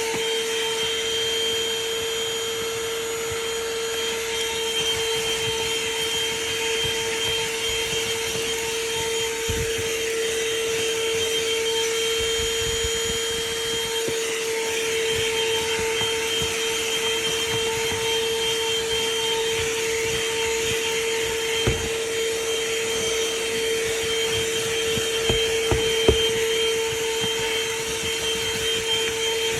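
ThisWorx handheld car vacuum running steadily with its attachment fitted, giving a constant mid-pitched whine over a rushing hiss. A few sharp knocks and clicks come through, the loudest about 22 and 26 seconds in.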